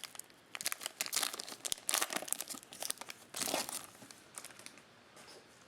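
Crinkling and rustling of trading-card packaging and chromium cards being handled, in irregular bursts that thin out near the end.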